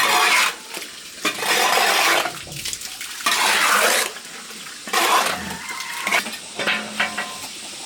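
Water splashing and pouring in repeated rushes every second or two, with light clinks of dishes or utensils between them, as when something is washed and rinsed in a basin.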